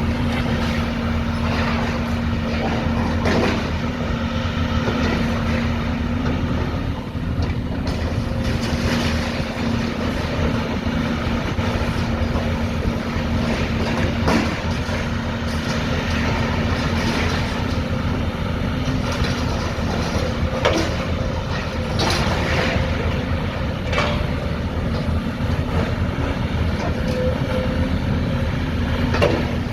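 A heavy engine running steadily with a low rumble and a steady hum, with scattered knocks and clanks throughout.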